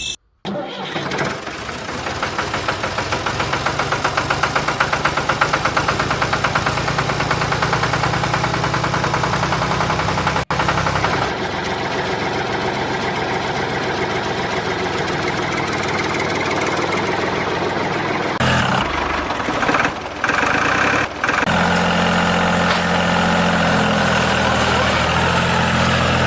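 A machine's motor running steadily with a fast rhythmic pulse, broken by a few abrupt cuts.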